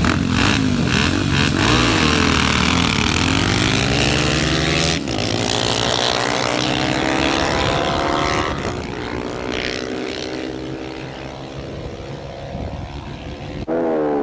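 Motorcycle engines at full throttle in a drag race, their pitch rising with each gear and dropping at the shifts. The sound breaks off abruptly about five seconds in and again near the end.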